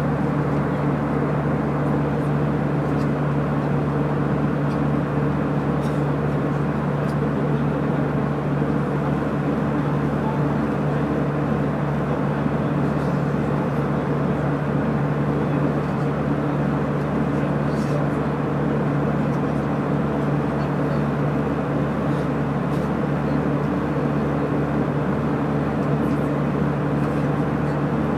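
Airliner cabin noise in flight: a steady drone of engines and airflow with a low, even hum.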